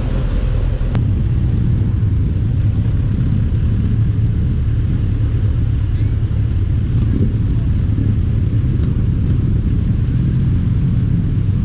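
A steady, loud low rumble, like vehicle noise or wind buffeting an action camera's microphone.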